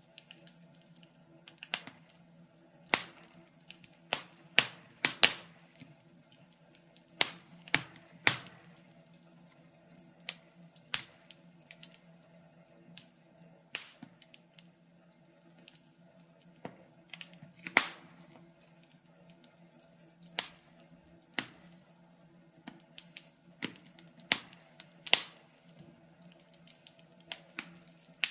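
Wood fire crackling in a fireplace: sharp, irregular pops and snaps, one or two a second, over a faint low hum.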